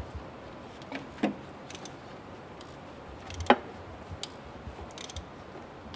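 Metal hand tools clicking and clinking against the truck's engine parts, with one sharp metallic knock about three and a half seconds in.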